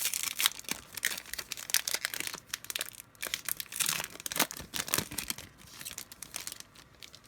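Foil trading-card pack wrapper being torn open and crinkled by hand, in a quick run of irregular crackles that thins out near the end.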